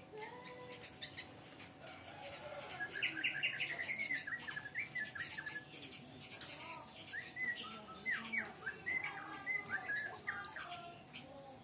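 Young sooty-headed bulbul chirping, a quick run of short calls in two bouts.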